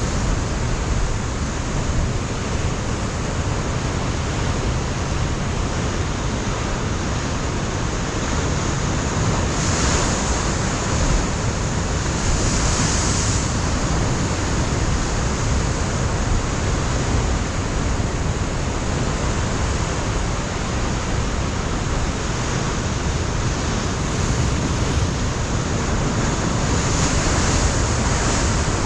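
Ocean surf breaking steadily on a rocky shore, a continuous wash of water with waves swelling up around ten seconds in, again a couple of seconds later, and near the end. Wind gusts over the microphone.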